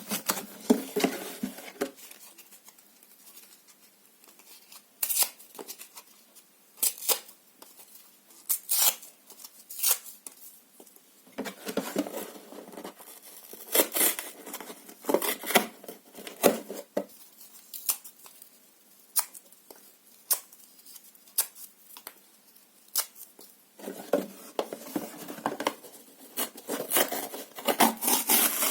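Paper and cardboard being torn by hand in short, irregular rips, with quieter pauses between bouts.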